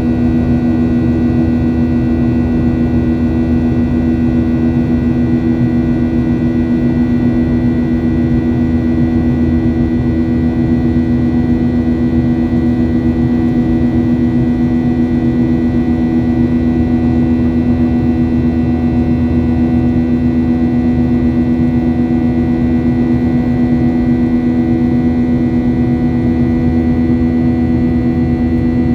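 Boeing 737-800 cabin noise: the CFM56-7B turbofan engines running steadily over the rush of airflow, with a constant hum of several fixed tones.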